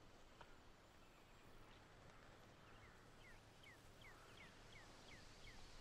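Faint outdoor quiet, with a small bird giving a run of short, falling chirps, about three a second, starting a little before halfway through.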